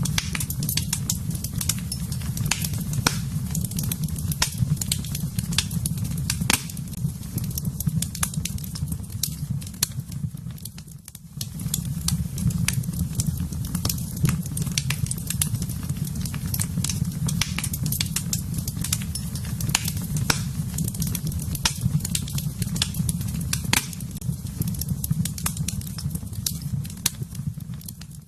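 Wood fire burning in a fireplace, crackling and popping with many sharp snaps over a steady low rumble of the flames. The sound dips briefly about eleven seconds in.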